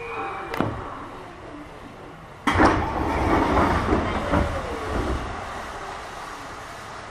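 Running noise inside an Eidan 6000-series electric train: wheels clicking over rail joints and a faint whine that fades within the first second. About two and a half seconds in, a sudden louder rush of rolling noise starts and dies away over the next few seconds.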